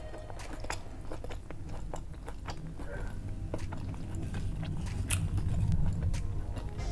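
Close-up chewing of crunchy food, with many sharp, irregular crunches that get louder about five seconds in.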